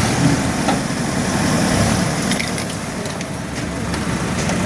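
A vehicle engine running steadily with a low rumble, and a few faint clicks.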